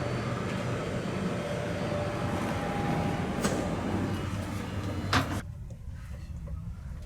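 Steady low rumble and hiss of a vehicle, with a couple of light clicks and a sharp knock about five seconds in, after which the hiss cuts off suddenly.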